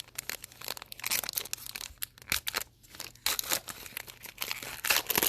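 A trading card pack wrapper being torn open and crinkled by hand, in a series of irregular crackles.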